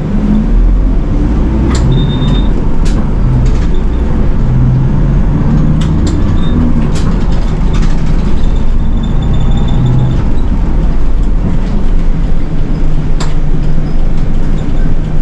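A Nishitetsu city bus driving, heard from inside: a steady low engine and road rumble with scattered sharp rattles and knocks from the bus.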